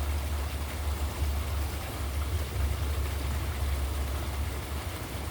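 Steady low wind rumble on the microphone over an even hiss, with no distinct events.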